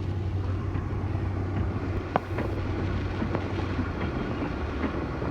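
Steady low vehicle hum and road noise while driving in strong hurricane wind, with wind rushing around the vehicle and one sharp click about two seconds in.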